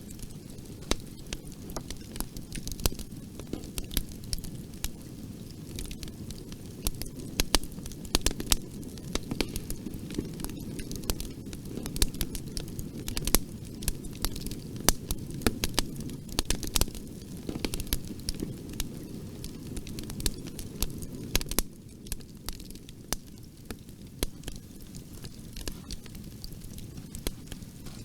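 Bonfire burning: a low steady rushing of flames with frequent irregular sharp crackles and pops of burning wood.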